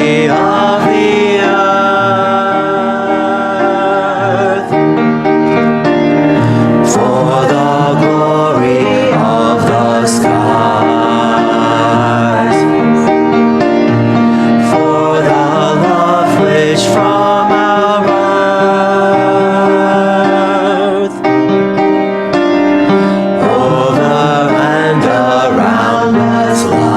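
Church choir singing a hymn anthem with piano accompaniment.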